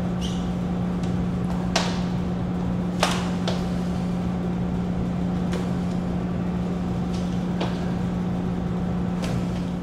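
A steady low hum over a hiss, with a few faint sharp clicks at irregular spacing.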